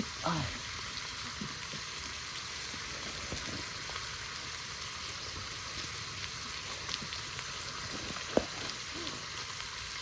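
Food sizzling steadily in a frying pan: potatoes, meat and tomatoes cooking over the camp heat. A few light knocks, with one sharp knock near the end.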